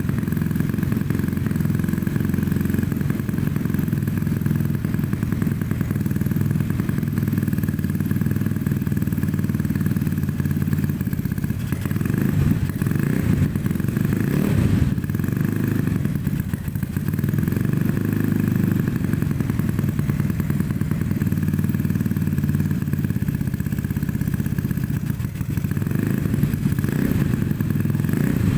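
Bored-up 200 cc Yamaha Mio scooter engine with a Tridente Ronin Katana free-flow racing exhaust, idling steadily on a warm-up just after a cold start. It gets a few brief revs around the middle and again near the end.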